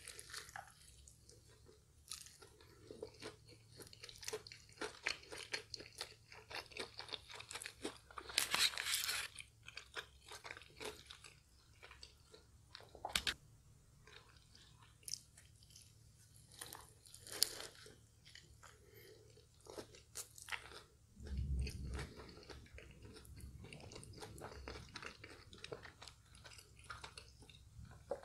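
Close-up crunching and chewing of a KFC Cheesy Zinger Stacker burger, its crispy fried chicken patty crackling with each bite. The loudest run of crunches comes about a third of the way through.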